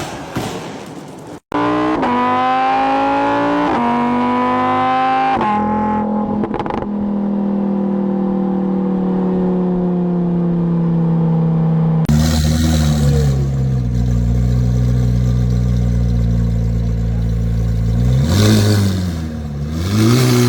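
High-performance car engine accelerating hard through the gears, with about three upshifts in quick succession, then holding a steady, slowly falling note. About twelve seconds in, a deeper engine runs at low revs, then is blipped up twice near the end.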